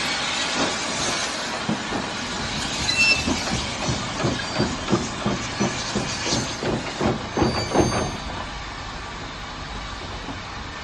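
Train of British Railways Mark 1 coaches rolling past slowly, its wheels knocking rhythmically over the rail joints, the knocks coming a little faster towards the end. After about eight seconds the knocking stops and a steady, quieter background noise remains.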